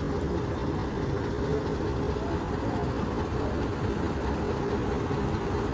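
Steady vehicle engine and road traffic noise: an even, low hum with no sudden events.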